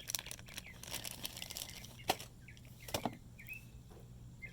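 Parts and packaging being handled, with light rustling and two sharp clicks about two and three seconds in, while small birds chirp briefly several times in the background from about two seconds in.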